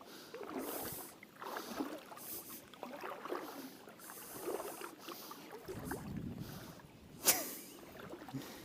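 River water sloshing and swirling around the legs of a person wading waist-deep, in soft surges about once a second. A sharp knock or splash about seven seconds in is the loudest moment, and a low wind rumble on the microphone sets in shortly before it.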